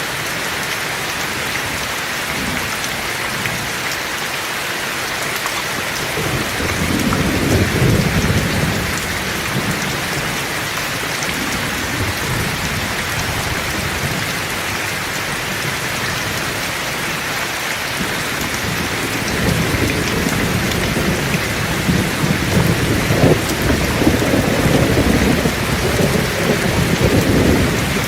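Heavy rain falling steadily, with thunder rumbling twice: once about a quarter of the way in, and again from about two-thirds of the way in to the end, longer and louder.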